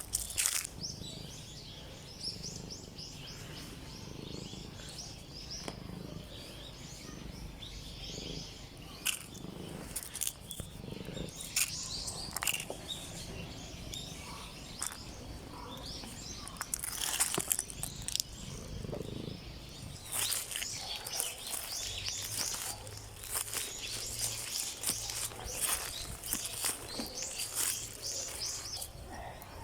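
Small birds chirping, many short high calls in quick succession, busiest in the second half.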